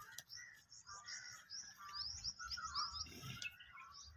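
Faint birds chirping, many short falling chirps in quick succession, with softer calls lower down.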